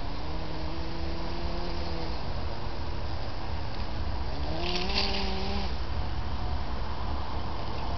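Electric drive motors of a Kyosho Blizzard RC snowcat whining as it drives, the pitch climbing near the start and again about four to five seconds in, over a steady low rumble. A short hiss comes about five seconds in.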